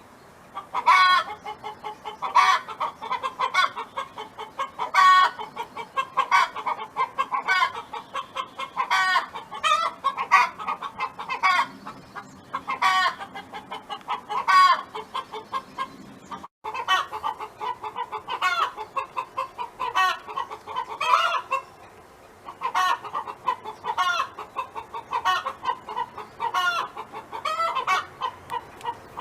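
A domestic hen clucking and cackling in a long run of short repeated calls, some rising in pitch at the end.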